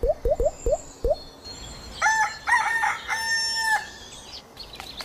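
A rooster crowing once, about two seconds in: two short notes and then a long held one. Before it, five short, quick sounds come in the first second.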